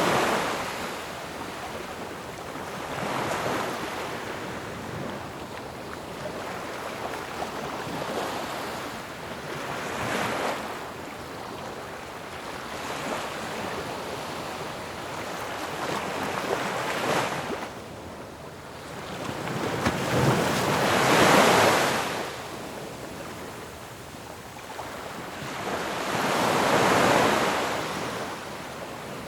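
Ocean waves crashing and washing on the shore, a steady rush that swells into a louder surge every few seconds, the biggest two about two-thirds of the way through and near the end.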